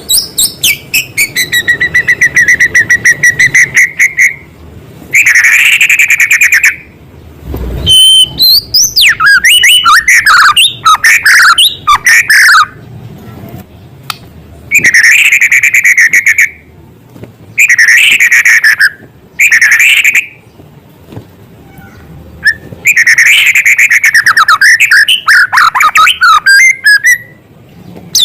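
White-rumped shama (murai batu) singing loudly in varied phrases of rapid repeated chips, trills and gliding whistles, with short pauses between phrases; its song is filled with notes mimicking small birds.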